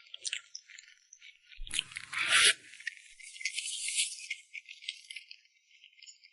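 Food packaging being handled: rustling and scraping with small clicks, loudest in a short burst about two seconds in, then fading.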